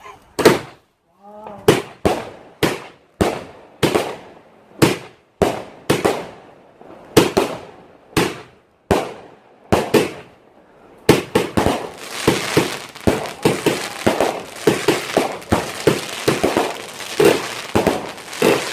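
Consumer multi-shot firework cake firing: sharp bangs about two a second for roughly the first ten seconds, then a dense, rapid barrage of bangs and crackling to the end.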